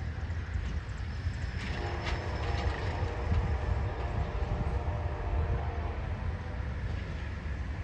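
Train running on the tracks: a steady low rumble with faint steady tones above it and a few clicks about two seconds in.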